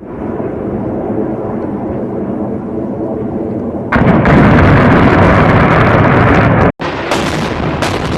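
Explosion: a sudden loud blast about four seconds in, whose roar lasts nearly three seconds before cutting off abruptly, set between stretches of lower rumbling.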